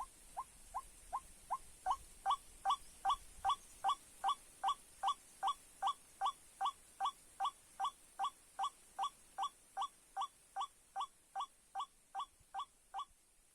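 White-breasted waterhen calling: a steady run of short, rising notes, about two and a half a second, that grow louder after about two seconds and stop shortly before the end.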